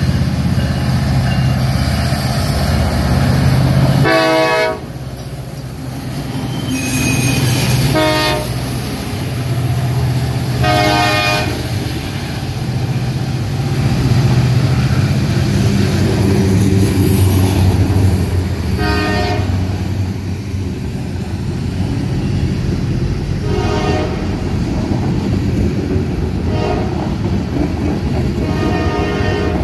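Union Pacific freight train passing: the diesel locomotives' engines hum, then the freight cars roll by with a steady rumble and wheel clatter. The train horn sounds a series of short blasts, the loudest about four seconds in and fainter ones later.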